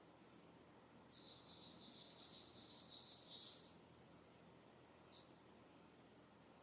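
A distant songbird singing: a short chirp, then a fast run of about eight repeated high, downward-sweeping notes lasting over two seconds, followed by a few single notes.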